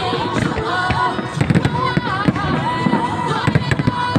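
Aerial fireworks going off in a rapid, irregular string of sharp bangs and crackles, with music playing underneath.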